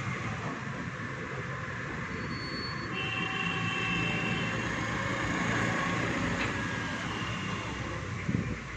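Steady rumble of passing vehicles, with a few brief high, steady tones from about two to four and a half seconds in and a short thump near the end.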